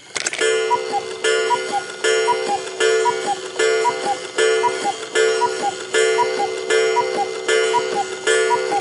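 Clock sound effect: a loud pitched ringing pattern that starts just after the opening and repeats about every 0.8 s. Each cycle carries a pair of short high notes stepping down.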